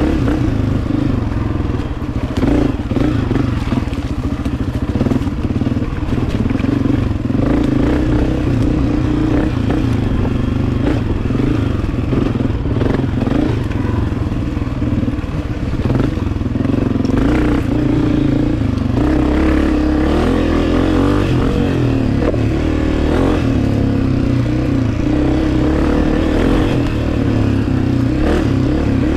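Two-stroke dirt bike engine running along a trail, revs rising and falling with the throttle, with occasional clatter.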